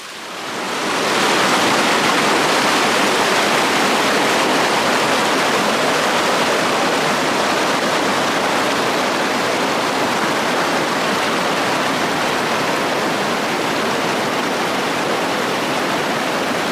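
Small waterfall pouring in a steady, even rush of water, rising in over about the first second and then holding level.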